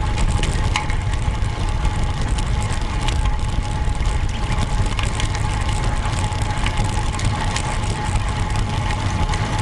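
Road bike being ridden: wind buffeting the microphone and tyre-on-road rumble, with scattered small clicks and rattles and a thin steady tone over them.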